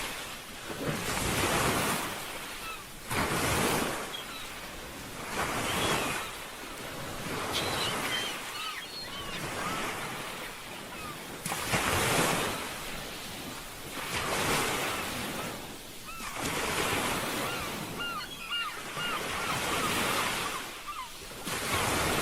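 Ocean waves washing onto a shore, surging and fading about every two seconds. Short high chirping calls sound over the surf at times.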